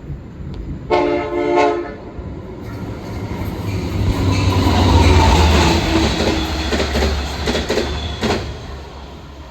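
A Long Island Rail Road train sounds a short blast on its multi-tone horn about a second in. The train then passes, its rumble building to a peak about halfway through and fading, with a run of wheel clicks over the rail joints near the end.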